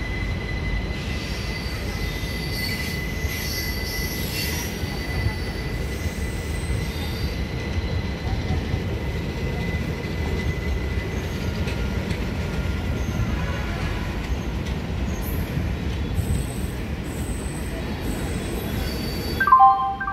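Arriving passenger train of old ICF coaches rolling slowly past a platform: a steady low rumble of wheels on rail with wheel squeal, including a thin high squeal held for about the first ten seconds and other shriller squeals coming and going. Near the end, a short chime rings out over the station public address.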